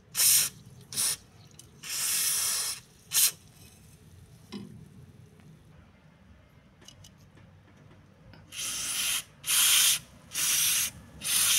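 Aerosol spray vaseline can spraying lubricant onto a car's suspension bushing in short hissing bursts: about four in the first few seconds, a pause, then four more near the end.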